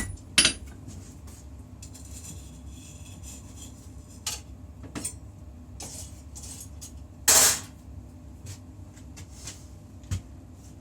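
Hammer blows on a hot puukko blade, the last two ringing strikes of a run coming at the start, then the hammering stops. Scattered light metal clinks and knocks follow over a steady low hum, with one louder half-second rasp past the middle and a single knock near the end.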